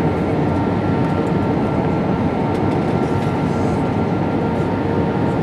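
Airbus A320 cabin noise in flight: a steady rush of airflow and IAE V2500 engine noise, with a few faint steady whining tones over it.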